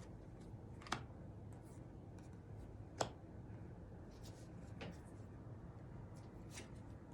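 Tarot cards being handled: faint rubbing and shuffling with a few sharp card snaps, the clearest about one and three seconds in.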